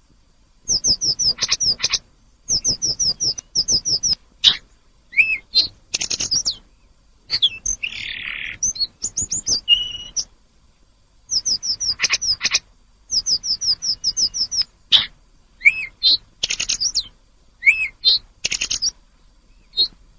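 Hill blue flycatcher (tledekan gunung) singing. Its song comes in phrases of quick, high, repeated notes, several a second, broken by short pauses, with a harsh rasping note about eight seconds in.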